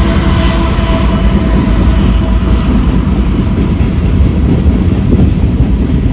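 Freight train of tank cars rolling past close by: a loud, steady rumble with the clickety-clack of wheels over the rail joints. A steady tone carried over from before fades out about a second in.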